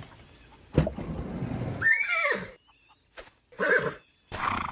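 A whinny of a horse-like animal: one falling, pitched call about two seconds in, after a thump, with a few clicks and short noisy bursts later on.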